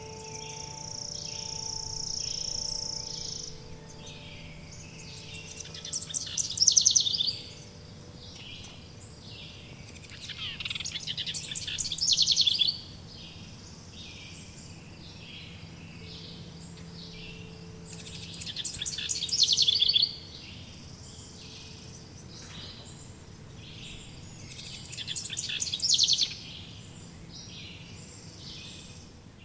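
Forest birdsong: one bird repeats a rapid trill four times, about every six seconds, each trill growing louder and then stopping abruptly, over a steady chorus of short chirps. Faint ringing tones fade out in the first few seconds.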